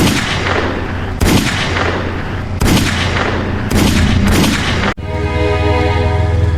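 A series of five loud sudden booms, one every second or so, each dying away over a steady low hum. About five seconds in they cut off and music with held tones takes over.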